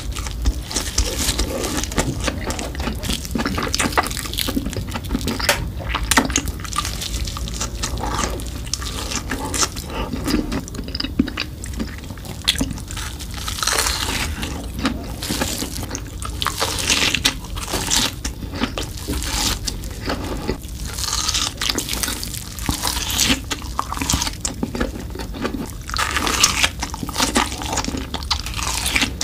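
Close-miked mukbang eating of Hot Cheetos-crusted fried cheese sticks: dense crackly bites of the crust mixed with wet, sticky chewing of the stretchy cheese filling.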